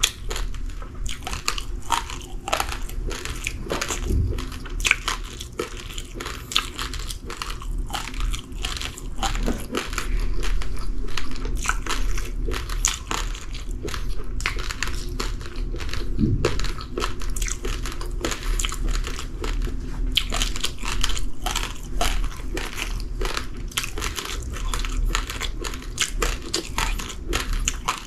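Raw, uncooked rice grains being crunched and chewed between the teeth: a dense, continuous run of small crisp cracks.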